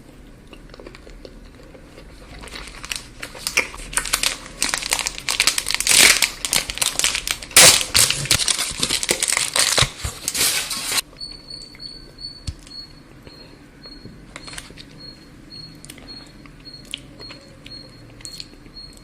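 A plastic or foil chocolate wrapper being crinkled and torn open, a dense crackling that builds and is loudest midway. It cuts off suddenly about eleven seconds in, leaving a faint high steady whine and a few light clicks.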